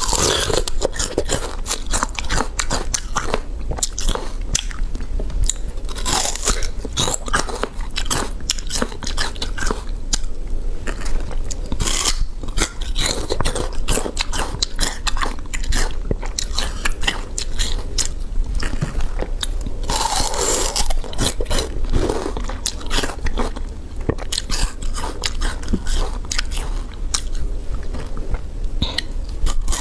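Peeled sugarcane being bitten and chewed close to the microphone: repeated crisp crunches as the fibrous stalk is bitten off and chewed.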